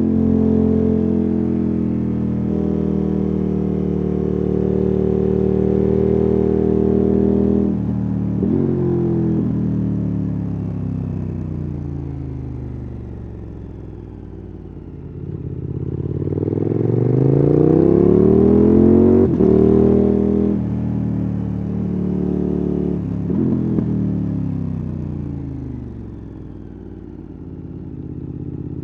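KTM 1290 Super Adventure S's V-twin engine and exhaust under way. It holds steady, then falls away off the throttle into a slow corner and climbs again under acceleration. About two-thirds of the way through the pitch drops sharply at a gear change, and the engine revs fall and rise once more near the end.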